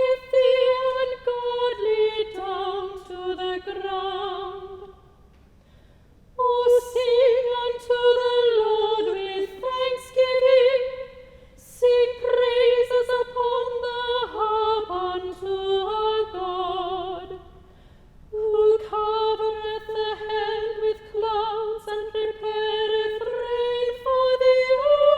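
Unaccompanied solo high voice singing a slow melody in long phrases, with short breaks between phrases about 5, 12 and 18 seconds in.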